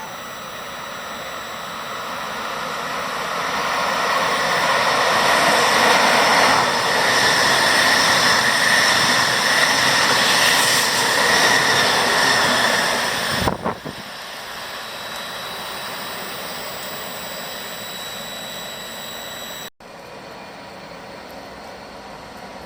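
Electric train running through a railway station: a rush of wheel and motor noise with a faint whine builds over several seconds and holds loud, then drops suddenly to a quieter steady rumble about two-thirds in.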